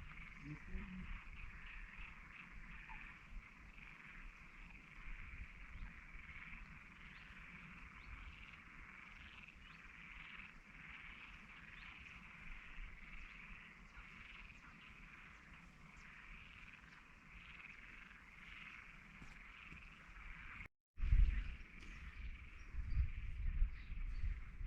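A steady chorus of many frogs calling together, a dense trill of rapid pulses. About three-quarters of the way through, the sound cuts out for a moment, and afterwards a low rumble joins the chorus.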